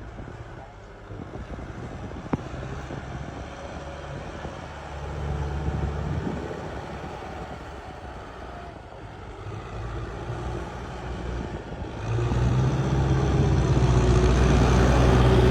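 Tractor engine running steadily, swelling briefly about five seconds in and growing much louder about twelve seconds in.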